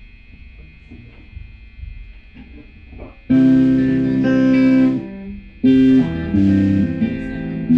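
Guitar chords struck and held in a band rehearsal: a loud chord rings out about three seconds in and stops short, then a second chord is struck near six seconds and rings on. The first few seconds hold only a faint hum.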